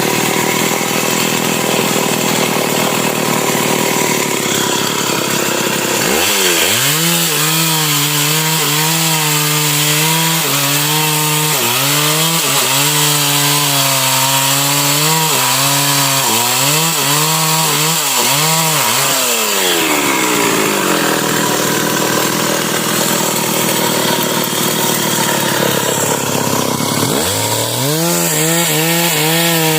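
Stihl MS 381 two-stroke chainsaw revving up about six seconds in and running at full throttle, its pitch dipping again and again as the chain bites into a sengon trunk. Its pitch glides down as the throttle is let off, then it revs up again near the end.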